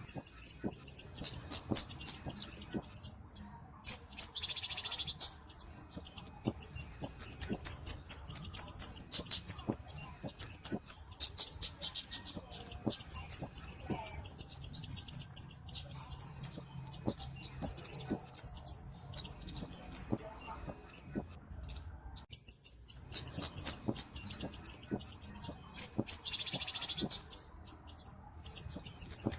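Flowerpecker ('cabe-cabean') calling: rapid, high-pitched ticking chips in runs of several seconds broken by short pauses. Twice a brief buzzy rasp sounds, about four seconds in and near the end.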